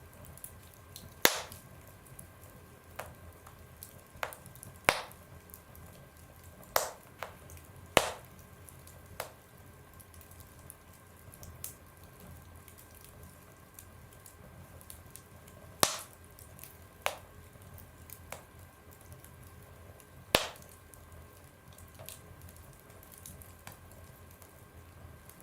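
Wood fire burning in a stove, crackling with sharp, irregularly spaced pops over a faint steady low background.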